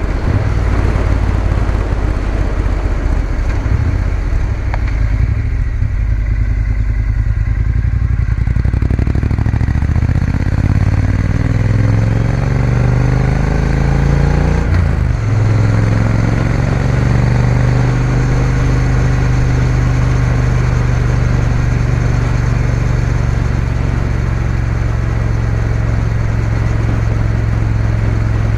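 Triumph Bonneville T120's 1200 cc parallel-twin engine pulling away: its pitch rises for several seconds, breaks briefly at a gear change about fifteen seconds in, then holds steady at a cruise. Wind and road noise run underneath.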